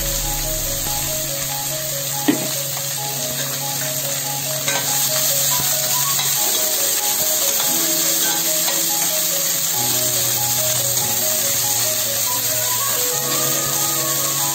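Chopped bottle gourd sizzling as it fries in hot oil in a stainless steel kadhai while it is stirred with a spoon, with one sharp knock about two seconds in.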